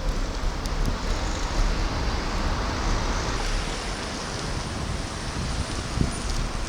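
Road traffic passing, with wind buffeting the microphone, heard from a bicycle on a town road.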